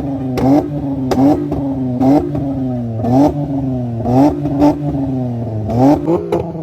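Modified Honda sedan's engine with an aftermarket Supra exhaust being blipped from idle: about eight short, quick revs that rise and drop back, several with a sharp crack at the top.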